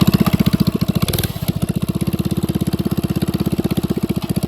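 Small single-cylinder gas engine of a mini bike running close by, a steady fast putter that eases off a little about a second in.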